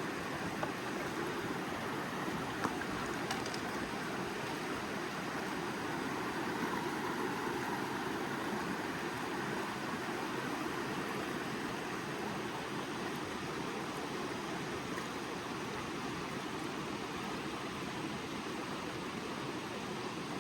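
Steady rush of creek water flowing, even and unbroken, with two faint clicks in the first three seconds.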